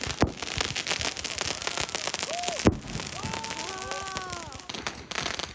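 Fireworks and firecrackers going off in a dense, continuous crackle, with sharp bangs about a quarter second in and near the middle. In the second half a drawn-out pitched tone rises and then falls over the crackle.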